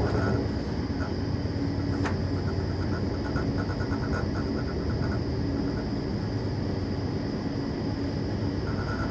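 Passenger train running at speed, heard from inside the carriage: a steady low rumble of wheels on the rails, with one sharp click about two seconds in.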